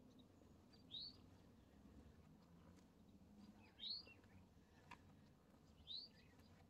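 A bird chirping faintly: three short, rising chirps about two to three seconds apart.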